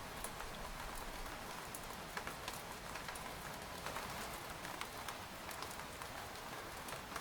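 Rain falling on a tent: a steady hiss of rainfall with many separate drops tapping sharply on the fabric.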